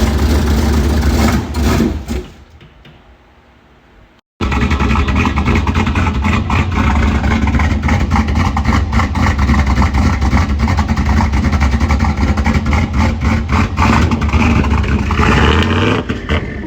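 Turbocharged GMC Sierra engine running loudly on its first start after a turbo kit install. The sound dies away about two seconds in. After an abrupt break the engine runs again, rising briefly near the end.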